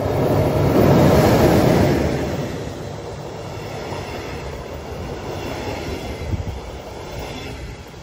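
Regional train, a red DB electric locomotive hauling double-deck coaches, passing close by: the locomotive goes by loudest about a second in, then the coaches roll past with steady wheel-on-rail noise and a few clicks, fading near the end.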